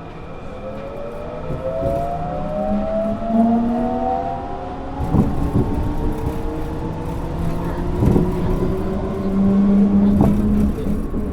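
Kobe New Transit 3000 series rubber-tyred people mover heard from inside the car, its inverter-driven traction motors whining in several tones that rise steadily in pitch as the train accelerates. A few sharp knocks come about five, eight and ten seconds in.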